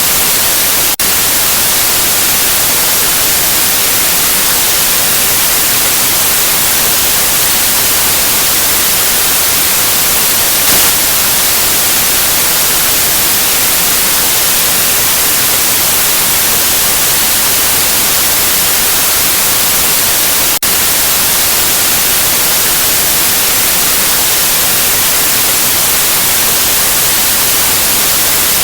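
Steady white noise: an even, loud hiss with no tones, broken by two momentary dips, about a second in and about twenty seconds in.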